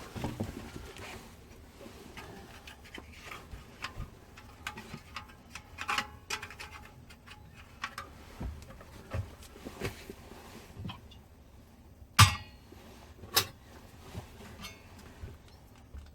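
Cookware and coffee-making gear being handled: scattered clicks, clinks and knocks at irregular intervals, with two sharp knocks, the loudest, about twelve and thirteen seconds in.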